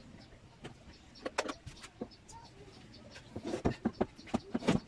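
Irregular clicks and knocks of hand work on a rack oven's exhaust vent. There are a few sharp ones about a second and a half in, and a quicker cluster over the last second and a half.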